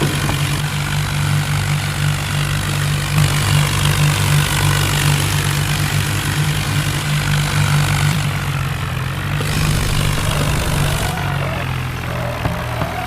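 A tractor engine running steadily with a heavy, low drone.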